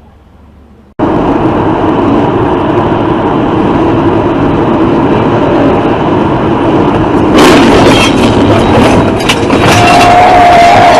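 Loud, steady road and wind noise of a moving vehicle, picked up by a dash camera, starts abruptly about a second in. From about seven seconds a rapid clatter of knocks and rattles joins it, and a thin wavering high tone sounds near the end.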